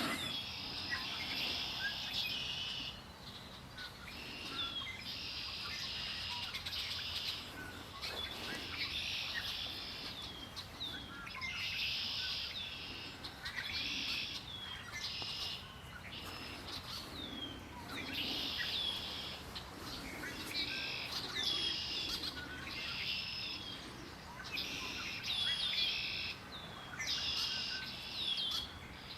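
Several songbirds singing together: bursts of dense, rapid song lasting a second or two, repeating every couple of seconds, mixed with short whistled slurs.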